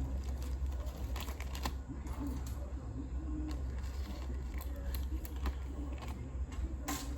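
Small tools and loose hardware clicking and rattling lightly as they are picked up and set down while a toolbox is sorted, a cluster of clicks about a second in and another near the end, over a steady low hum.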